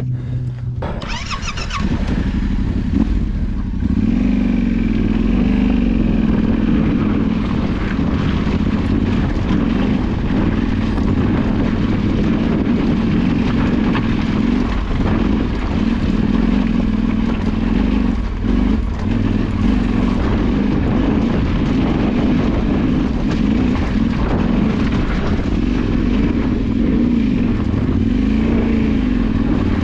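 Off-road motorcycle engine running under way, its revs rising and falling continually; it picks up about a second in.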